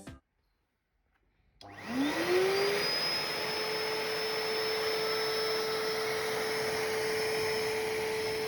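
A commercial wet/dry vacuum cleaner, the Minato MPV-101, is switched on about a second and a half in. Its motor spins up with a rising whine, then settles into a steady, loud running hum and rush of air.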